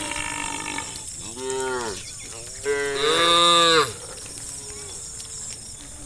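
Cattle mooing: several calls from different cows, one after another. The loudest is a long moo from about three seconds in, with fainter lowing after it.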